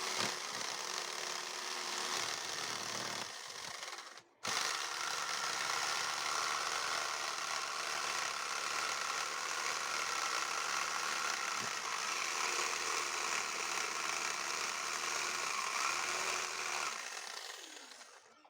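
A power tool runs steadily, cuts out for a moment about four seconds in, then runs again and winds down near the end.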